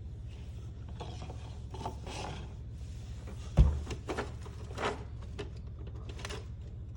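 Plastic toy rear-loading garbage truck being played with by hand: its mechanism clicks, rattles and scrapes as toy trash cans are emptied into it, with one sharp knock about three and a half seconds in and a few lighter taps after.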